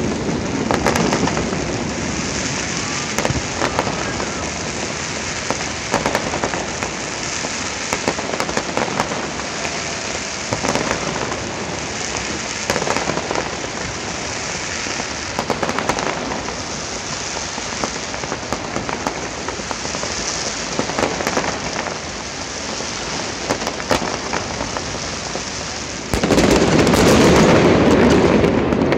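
Fireworks display: a dense crackling with scattered sharp bangs. About three seconds before the end it grows louder and deeper, heavier bursts filling in.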